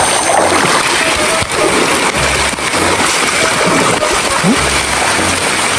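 Steady hiss of heavy rain, with background music's low beat underneath.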